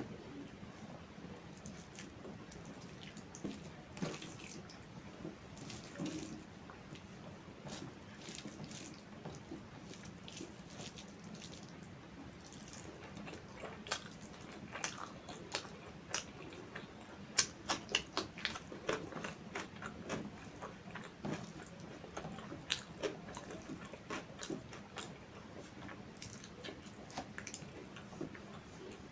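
Close-miked eating sounds: a person chewing food, with sharp wet mouth clicks and smacks scattered throughout and a quick run of them past the middle.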